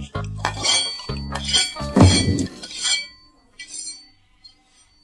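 Utensils clinking and scraping against a bowl as food is mixed, over about three seconds, with a louder knock about two seconds in and a few fainter clinks near the end.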